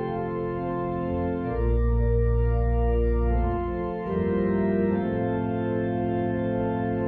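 Organ music in slow, held chords, with a deep bass note coming in about a second and a half in.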